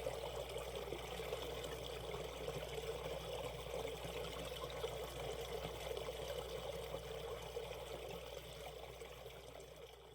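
Shallow valley stream running steadily over rocks, fading out over the last few seconds.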